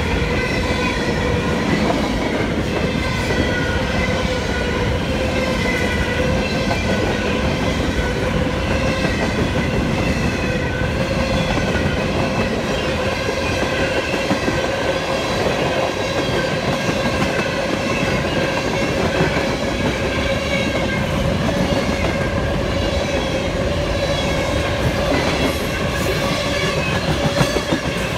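Cars of a mixed freight train (covered hoppers, tank cars and refrigerated boxcars) rolling steadily past at trackside. Steel wheels rumble and clatter on the rails, and a steady ringing tone runs through it.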